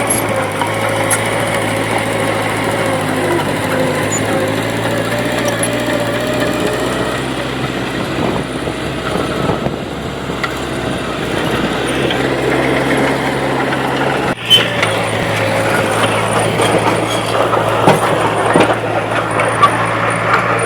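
Diesel engine of heavy earthmoving machinery running steadily under work, with some clanks and ticks on top, and a sudden brief break about two-thirds of the way through.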